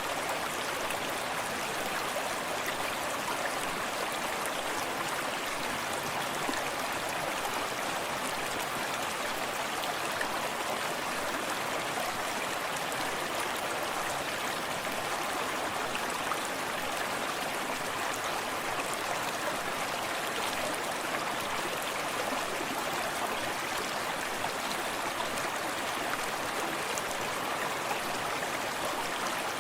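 Forest stream running steadily over rocks, a continuous rushing and splashing of water with small drips and plinks.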